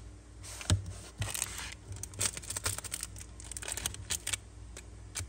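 Zippo lighters and their packaging being handled: a sharp click just under a second in, a stretch of rustling, then a run of small metallic clicks and taps.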